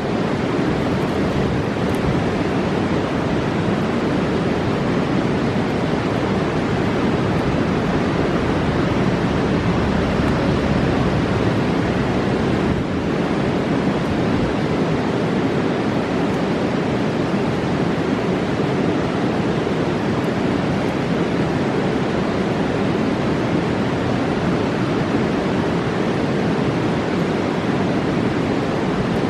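Fast mountain river rushing, a steady, unbroken roar of water.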